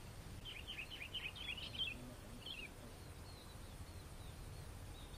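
A small bird chirping a quick run of high calls for about a second and a half, followed by a couple of single chirps, over a steady low outdoor rumble.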